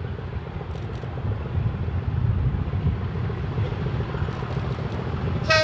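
Steady low rumble of a train working on the line, with a locomotive whistle starting right at the end.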